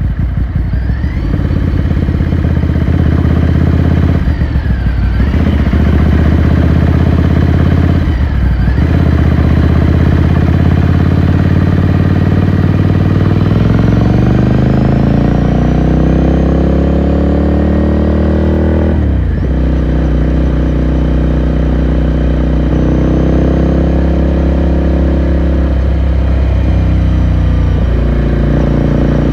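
Ducati Scrambler Sixty2's air-cooled 399 cc L-twin engine pulling under way, with brief drops in sound about 4, 8 and 19 seconds in, as at gear changes. Between the second and third drops the revs climb steadily for several seconds. After the last one it runs at a steady pitch.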